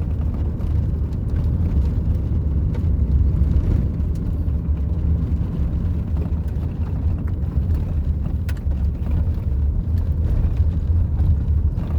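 Steady low rumble of a moving road vehicle, heard from on board, with a few faint ticks.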